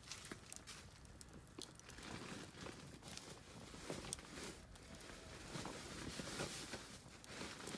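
Oak firewood burning in a campfire pit, crackling with many small sharp pops over a soft hiss that grows fuller about two seconds in.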